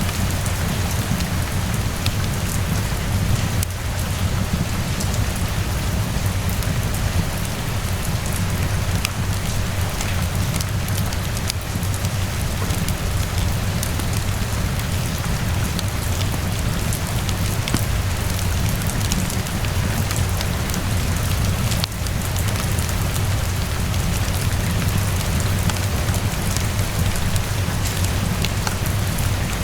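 Steady rainfall, a dense even patter with a low rumble underneath, mixed with scattered sharp crackles from a wood fire.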